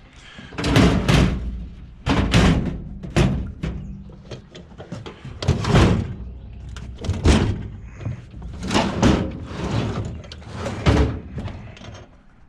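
Solid steel desk being shoved and tipped about, giving several loud metallic bangs and scrapes in an uneven rhythm.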